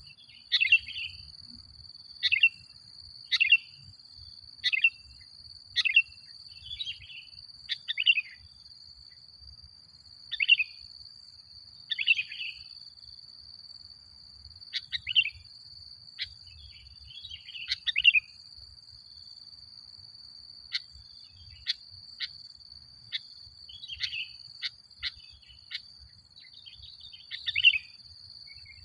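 Sooty-headed bulbul (kutilang) calling in short, sharp chirps, about one a second at first, then more spread out with a few brief clicks, over a steady high-pitched tone.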